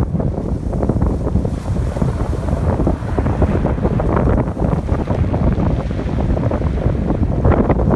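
Strong wind buffeting the microphone in a loud, fluttering low rumble, over the wash of ocean waves breaking on the shore.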